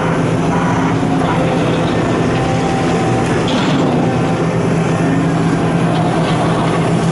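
Heavy excavator's diesel engine running steadily at a constant speed, a continuous low hum.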